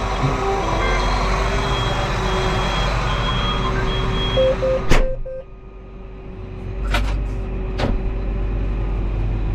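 Tractor engine idling steadily with a repeating electronic beep, until about five seconds in a cab door bangs shut and the engine becomes much quieter and muffled inside the cab. Two sharp clicks follow a couple of seconds later.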